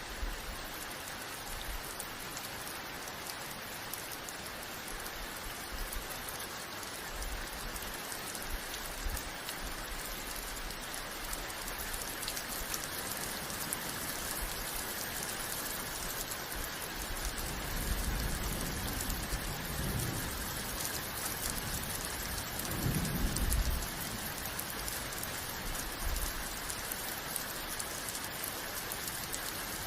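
Steady rain falling on a surface, an even hiss, with two low rumbles of thunder past the middle, the second one the louder.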